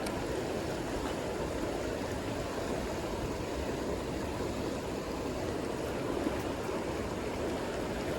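A creek's flowing water rushing steadily over rocks.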